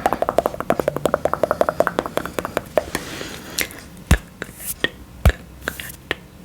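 Fast fingernail tapping on a hollow coconut shell, about eight taps a second with a hollow ringing tone for the first three seconds. After that come slower, scattered taps and a few dull knocks.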